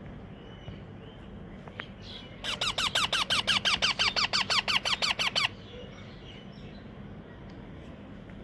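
Baby rose-ringed (Indian ringneck) parakeet giving a rapid run of high, squeaky calls, each dropping in pitch, about eight a second for some three seconds, starting about two and a half seconds in. This is the chick's food-begging call during hand-feeding.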